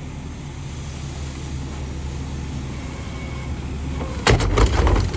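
Rear-loader garbage truck engine idling steadily, then a burst of loud bangs and clatter about four seconds in.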